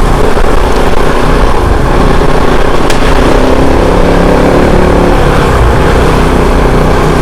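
Kove 450 Rally's single-cylinder engine running steadily as the motorcycle is ridden, loud, with its pitch shifting slightly as the throttle changes.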